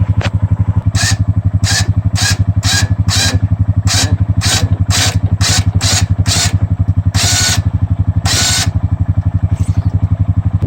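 Honda Rancher ATV's single-cylinder engine idling while its electric winch is bumped on in short bursts about twice a second, then run twice for about half a second each, pulling slowly on a bent ATV frame.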